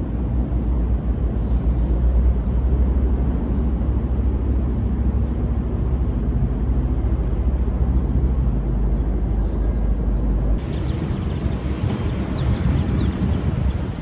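Japanese white-eyes giving thin, high chirps, faint under a loud steady low rumble. About ten and a half seconds in the sound changes abruptly, and the chirps come clearer and much more often.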